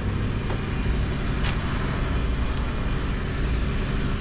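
Motor vehicle engine idling steadily, a low even hum with a few faint clicks over it.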